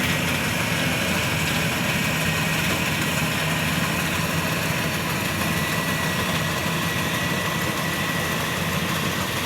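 Rice combine harvester's engine running steadily at idle, a low even hum, with a thin high whine coming in about two seconds in.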